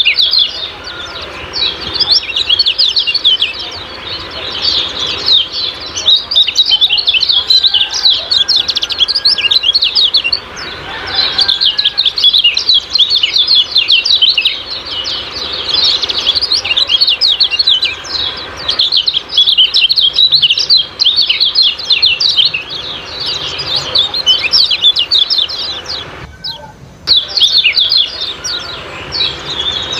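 Kecial kuning (a white-eye) singing its 'ciak ciak' masteran song: long runs of rapid, high-pitched chirps broken by a few short pauses.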